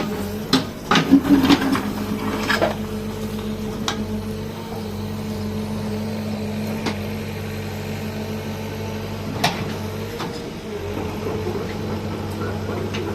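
Backhoe engine running steadily, with sharp metallic clanks, several in the first couple of seconds, then a few single ones later.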